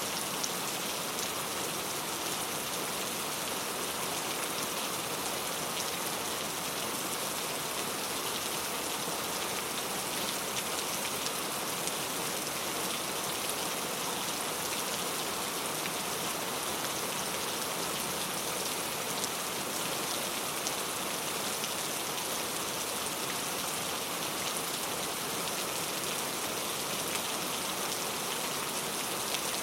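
Steady rain falling: an even hiss flecked with many fine drop ticks, with no thunder.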